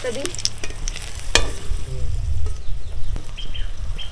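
Battered chilli fritters sizzling in hot oil in a kadai while being turned with a spatula, with a sharp knock of the utensil against the pan about a second and a half in. Birds chirp near the end.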